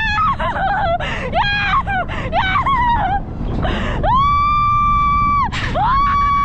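A rider screaming on an alpine coaster as it speeds downhill: short high yelps in the first few seconds, then two long, high, held screams near the end. Under the screams, a constant low rumble of wind buffeting the microphone.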